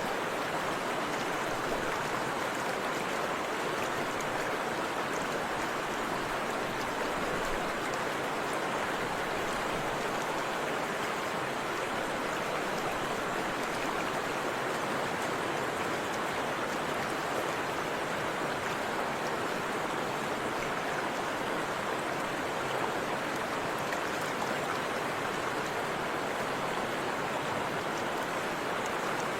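Forest river and waterfall water rushing in a steady, even flow.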